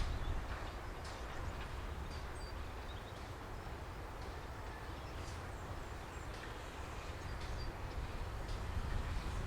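Small birds chirping in short high calls over a steady low rumble. The rumble gets slightly louder near the end.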